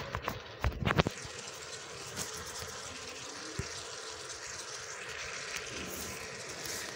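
Chopped cauliflower sizzling as it fries in oil in an aluminium pot, a steady hiss, with a few knocks of the wooden spoon against the pot in the first second.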